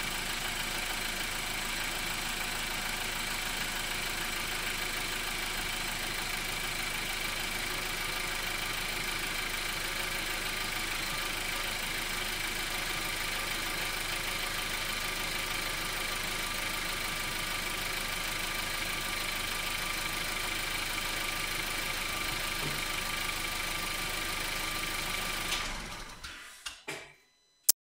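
Skoda Octavia 1.4 TSI four-cylinder turbocharged petrol engine idling steadily with its new coolant pump fitted. The sound dies away about two seconds before the end, followed by a single sharp click.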